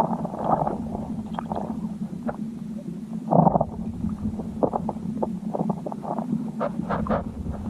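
Muffled underwater sound picked up by a submerged camera: a steady low rumble with scattered clicks and knocks, and a louder thump about three and a half seconds in.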